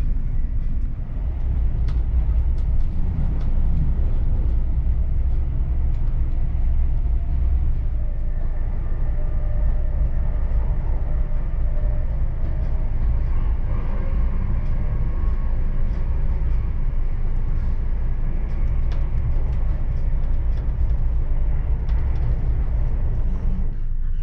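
Running noise inside a Mk3 passenger coach of a locomotive-hauled train: a steady low rumble of wheels on rails, with scattered light clicks and rattles.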